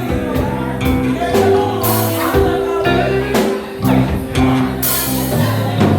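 Live band playing a slow soul ballad: an instrumental passage between sung lines, with sustained chords over a bass line and two bright crashes, about two and five seconds in.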